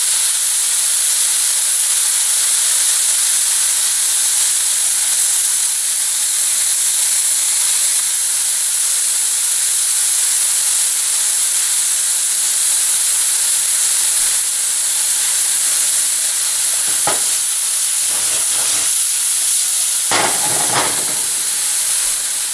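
Sliced pheasant back mushrooms and onions sizzling steadily in hot oil in a pan, with a few short knocks near the end as the food is stirred.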